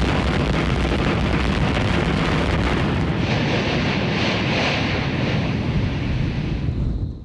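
Yasur volcano's crater erupting, a continuous low rumble and rush with wind buffeting the microphone. A brighter hissing rush swells in the middle, and the sound cuts off abruptly near the end.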